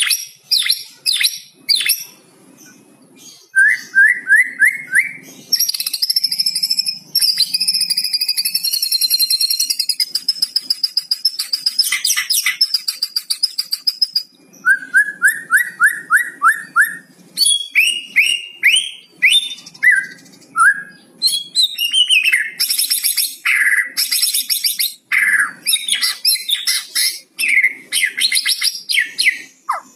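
White-rumped shama singing a varied song. It mixes runs of five or six quick upslurred whistles with a long, rapid crackling rattle (the 'kretekan') that lasts several seconds, and sharp high notes.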